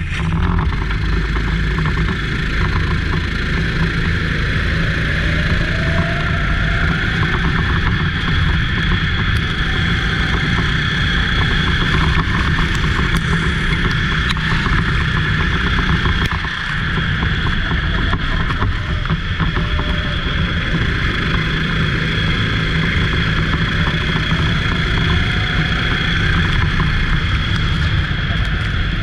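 Go-kart engine running hard at racing speed, its revs rising and falling every few seconds, with a continuous rushing noise.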